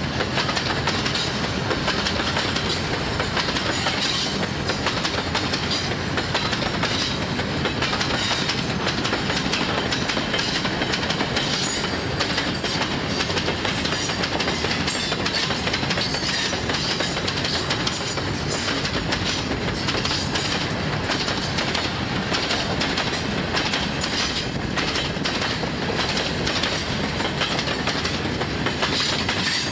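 Freight train of covered hopper wagons and open box wagons rolling past close by: a steady rumble of wheels on rail with a continuous run of clickety-clack as the wheels pass over the track.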